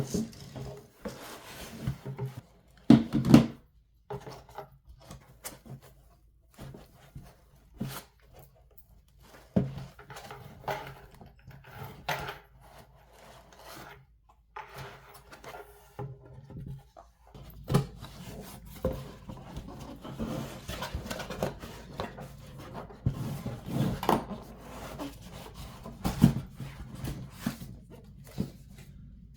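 Hands handling PC parts during assembly: irregular clicks, knocks, taps and rubbing, with a few sharper knocks around three seconds in and again from about eighteen seconds on.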